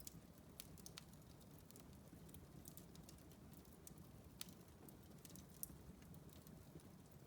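Wood fire in a fireplace crackling faintly: scattered small pops and snaps over a low, steady rumble of burning, with a couple of slightly sharper pops in the second half.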